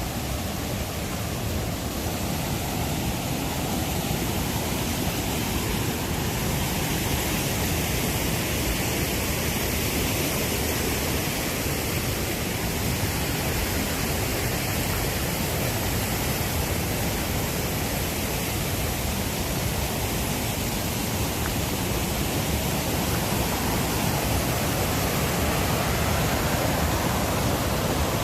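Steady rushing noise with no distinct events, growing slightly louder near the end.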